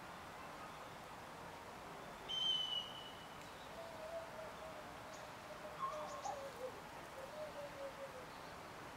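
Quiet outdoor ambience with a short, sharp, high bird call about two seconds in, followed by a fainter wavering call in the second half.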